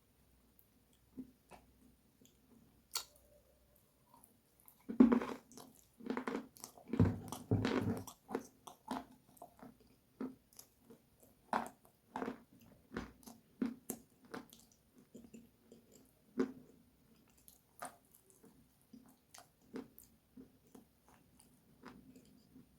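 Close-up biting and chewing of something crunchy: a burst of loud crunches about five seconds in, then slower, scattered crunches as it is chewed.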